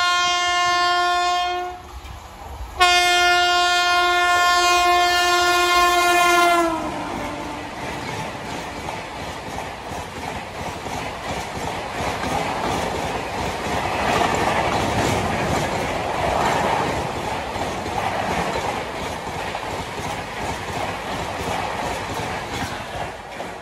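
Electric locomotive's horn sounding two blasts, a short one and then a longer one whose pitch drops as the engine passes. This is followed by the rush and clickety-clack of the passenger coaches going by at speed, swelling and easing.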